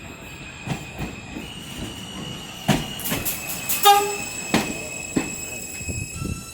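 R160A New York subway train on the L line, running with a steady high-pitched squeal and irregular clanks and knocks, loudest about three and four seconds in. A brief pitched tone sounds about four seconds in.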